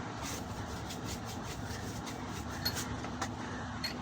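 Steady workshop background noise with a low hum, and three light metallic clinks with a brief ring in the second half, typical of tools or parts knocking on a diesel engine during rocker arm installation.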